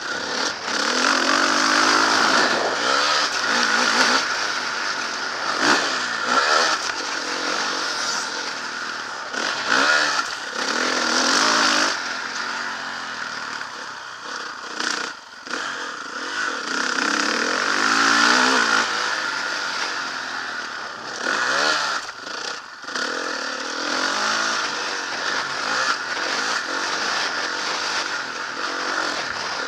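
Motocross bike engine revving up and falling back again and again as the throttle is worked, with a few brief drops where the throttle is shut off.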